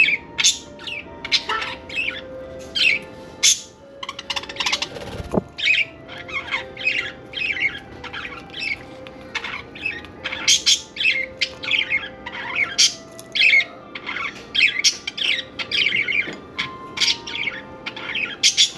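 Budgerigars chirping and chattering, a rapid stream of short high calls throughout.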